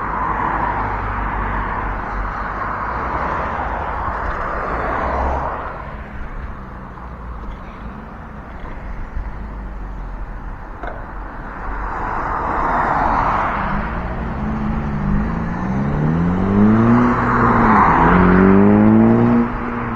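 Road traffic: cars passing one after another, their tyre-and-road noise swelling and fading several times. Near the end a vehicle's engine note rises and falls in pitch as it goes by.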